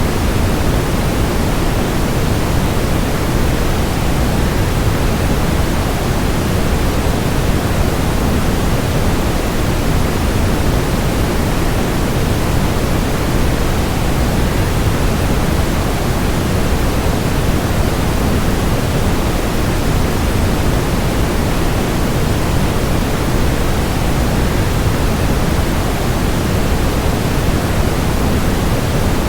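Steady, unchanging rush of a waterfall mixed with white noise, strongest in the low end.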